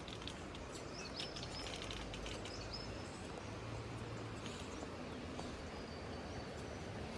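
Temperate rainforest ambience: a steady background rush with short, high bird calls, a cluster of them from about one to three seconds in and another near six seconds.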